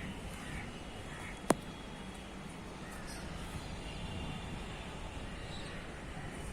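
Outdoor ambience with a few faint, short bird calls over a steady background noise, and one sharp click about one and a half seconds in.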